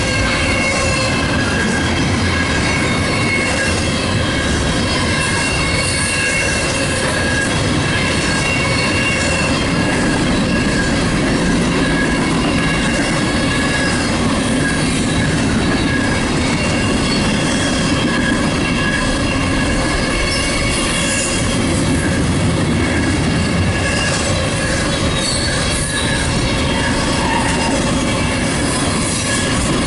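CSX intermodal freight train rolling past at speed: a steady, loud rumble of the cars on the rails, with wheels squealing in several steady high tones over it.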